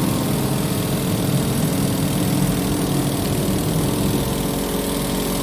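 Spinner of a semi-automatic twin-tub washing machine spinning a load of wet clothes: a steady motor hum.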